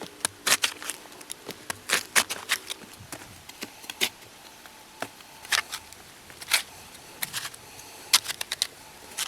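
An irregular series of sharp clicks and snaps, one to three a second, with quieter rustling between them.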